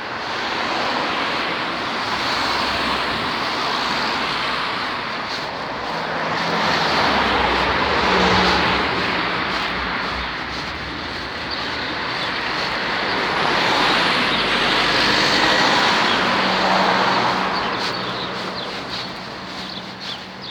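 Road vehicles passing close by, the tyre and engine noise swelling and fading, loudest twice.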